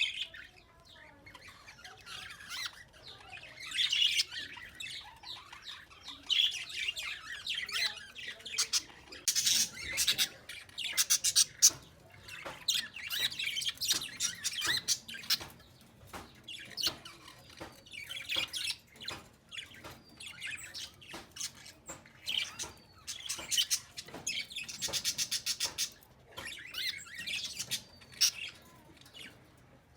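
Birds calling: a busy run of short chirps and harsh squawks, with a fast rattling trill near the end.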